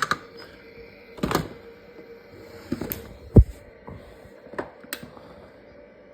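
Scattered knocks and clicks from a LeapFrog Pick Up & Count toy vacuum being handled. The loudest is a single low thump about three and a half seconds in.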